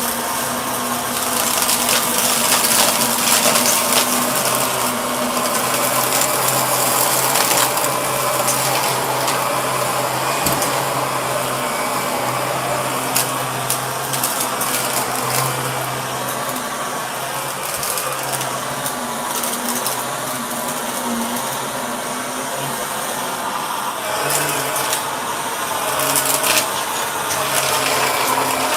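Shark vacuum cleaner running steadily: a motor hum under a rushing hiss of air, wavering a little in pitch and level, with a few short clicks.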